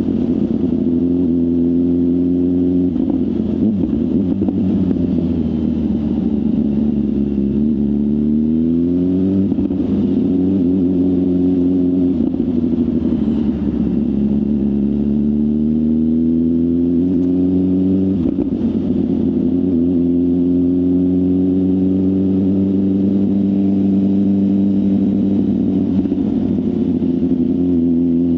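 BMW S1000RR inline-four sports bike running through a full aftermarket exhaust while being ridden, its note falling and rising as the rider rolls off and accelerates, with abrupt shifts in pitch about 3, 9 and 18 seconds in.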